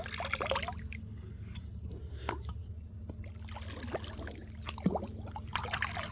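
Shallow creek water trickling, with scattered small drips and splashes.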